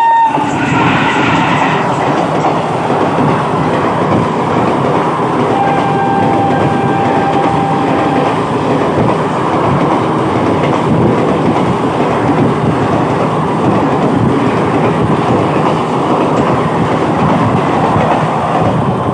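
Indian Railways passenger express rushing past at speed: a loud, steady rush of coaches rolling by, the wheels clattering over the rail joints. A thin, steady tone sounds for a couple of seconds about six seconds in.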